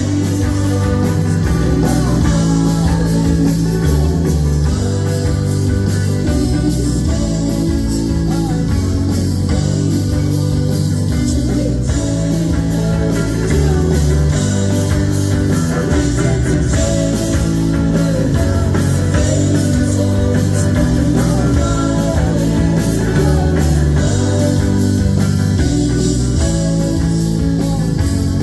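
A rock band playing live, with electric guitars, bass and drum kit in a steady driving rhythm.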